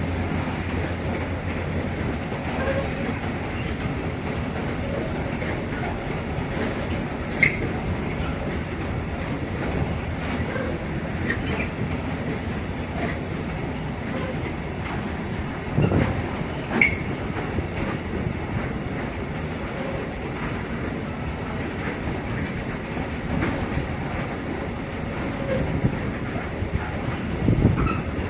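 Freight train wagons rolling past on the rails with a steady rumble and clatter. A few sharp clanks stand out, about a third of the way in, twice around the middle and once near the end.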